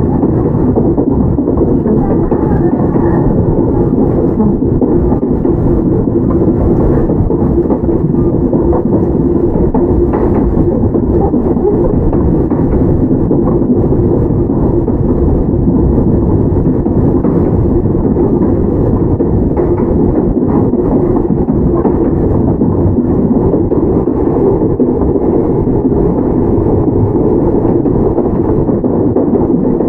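Interior running sound of a Toyama Chiho Railway 17480 series electric train, a former Tokyu 8090 series car, at speed: a steady, loud rumble of wheels on rails, with a low hum from the running gear.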